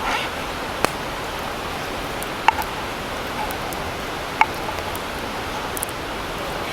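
Campfire hissing steadily with a few sharp pops and clicks, two of them with a brief ring.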